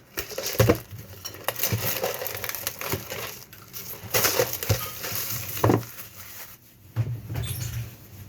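Plastic packaging of an instant ramen being opened and crinkled by hand, with irregular crackling and sharp knocks and clicks as the pieces are handled.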